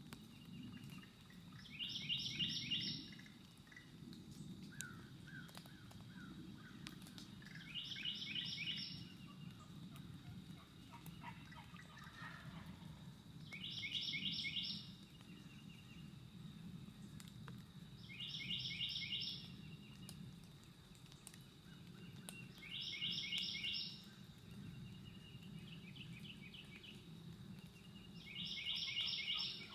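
A songbird singing one short, fast-pulsed phrase over and over, about every five seconds, with fainter bird calls between, over a steady low background rumble.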